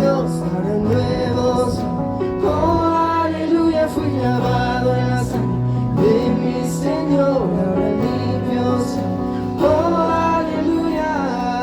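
Voices singing a Spanish-language Christian worship song over instrumental accompaniment, with long held notes.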